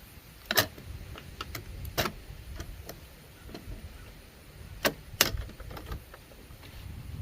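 Scattered sharp clicks and knocks of tools and parts being handled while a refrigerator is stripped for scrap, over a low rumble.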